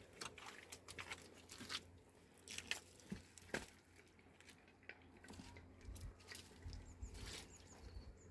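Faint, irregular clicks and crunching sounds, with a low rumble rising near the end.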